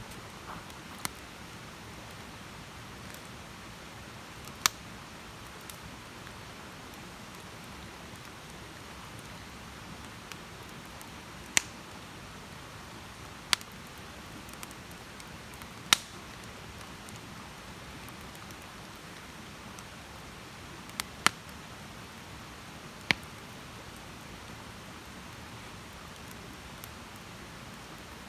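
Wood campfire burning with a steady soft hiss and sharp pops and crackles every few seconds.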